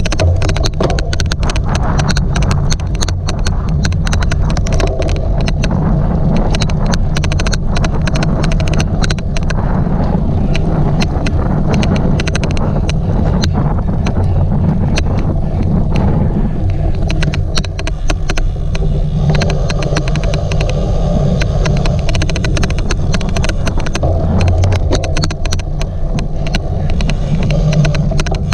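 Steady low rumble of riding a cyclocross bike over rough ground, with wind on the microphone, cut through by a fast, irregular run of sharp clicks throughout: the odd clicking noise.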